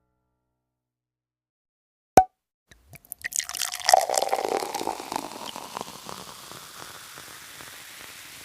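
Dripping and splashing water with many small plinks. It starts after a silent gap and a single sharp click, is loudest about a second after it begins, then settles into a fainter, steady hiss of running water.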